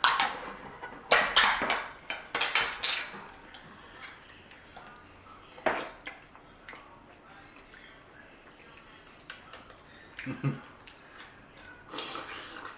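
Utensils clattering and scraping against metal cans of lasagna, dense in the first three seconds, then one sharp knock about six seconds in and a few scattered scrapes after.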